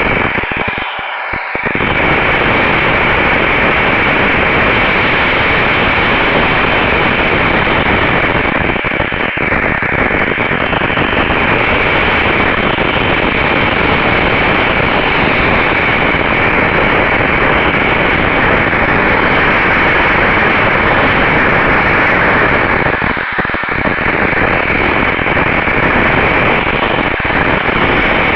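Loud, steady static-like hiss in a RunCam 2 action camera's audio, with a faint steady tone running through it. The noise thins out briefly near the start and again about 23 seconds in.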